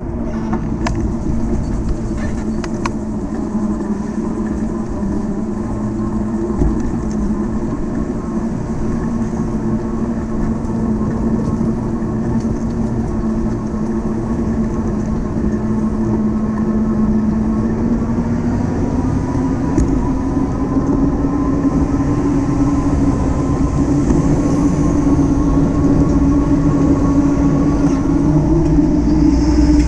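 Electric bike in motion: a steady motor hum that rises a little in pitch about two-thirds of the way through, over a low rumble of wind and road noise, with a few faint clicks near the start.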